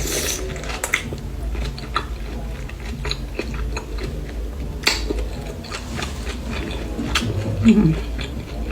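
Close-up chewing and wet mouth sounds of someone eating a tomato stuffed with seafood salad, with frequent small clicks and smacks. A brief low hum comes near the end.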